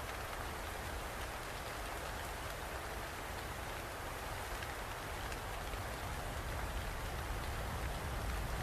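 Steady rain falling, a constant even hiss with a low rumble underneath and scattered drop ticks.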